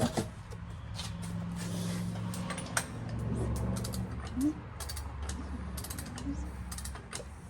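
Scattered clicks and creaks of hand tools working on a big-block Mopar 400 V8 as a compression tester is set up on cylinder number 6, over a steady low hum.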